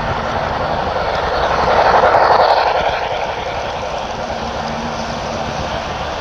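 Train running past, a steady rushing noise that swells to its loudest about two seconds in and then eases off.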